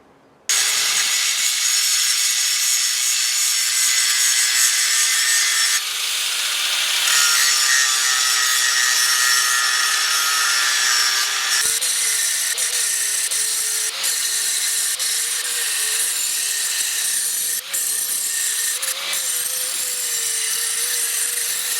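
Angle grinder running with its disc against metal: a steady high whine over a loud hiss, starting about half a second in, with the pitch wavering in the second half as the load changes.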